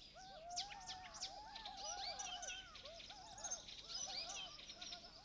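Birds chirping and calling, many short arched notes overlapping in a faint chorus, with a few high quick falling whistles in the first second or so.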